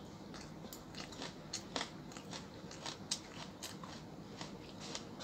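Faint chewing and crunching of food, with irregular small crisp clicks.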